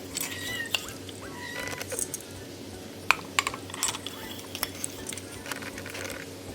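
Cats eating wet food from dishes: irregular small clicks and clinks of teeth and tongues against the bowls, with a couple of brief high whistle-like tones in the first two seconds.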